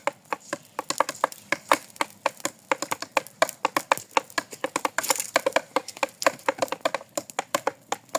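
Wood fire crackling, with sharp irregular pops and snaps several times a second.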